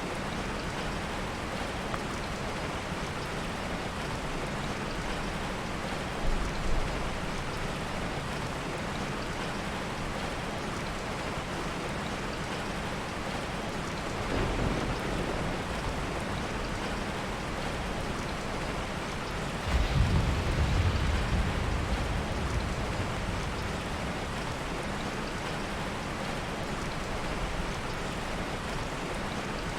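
Steady heavy rain, with a low rumble of soft thunder rolling in suddenly about two-thirds of the way through and fading over a few seconds; fainter low thumps come earlier.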